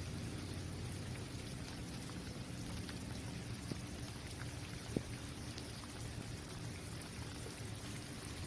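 Steady rain falling on a basketball court, with individual drops ticking on the hard surface and one sharper tap about five seconds in.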